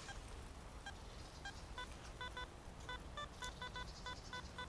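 Metal detector beeping a series of short electronic tones at a few different pitches over a target, the beeps coming faster in the second half.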